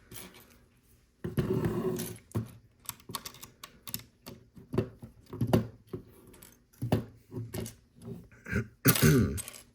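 Small plastic LEGO pieces clicking and rattling as they are picked through and handled, a string of irregular light clicks.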